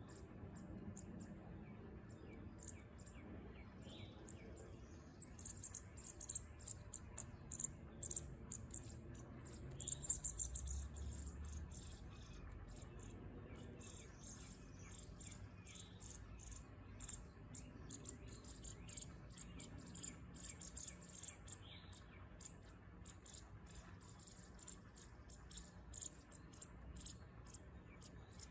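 Small birds chirping: many short, high-pitched chirps in quick, irregular runs, busiest in the first half.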